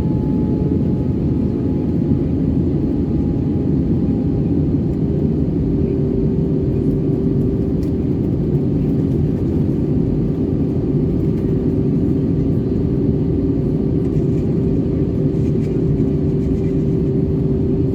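Steady cabin noise inside an Airbus A320-214: the low, even roar of its CFM56 engines and the airflow. A faint falling tone fades in the first few seconds, and a steady hum comes in about six seconds in.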